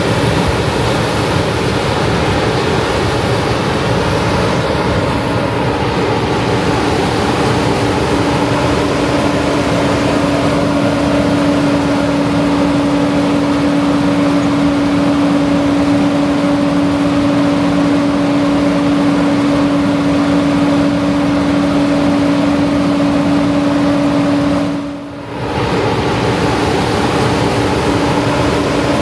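John Deere 9650 combine running steadily while harvesting wheat: a constant machine drone with a steady hum over it. It drops away briefly about 25 seconds in.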